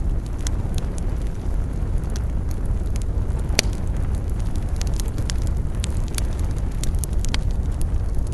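Wood campfire burning, with scattered sharp crackles and pops over a steady low rumble; one louder pop about three and a half seconds in.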